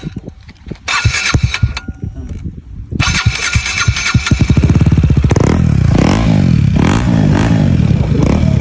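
KTM 250's single-cylinder engine running with its silencer opened up: uneven and popping for the first few seconds, then running loud from about three seconds in and revved up and down several times from about five seconds in.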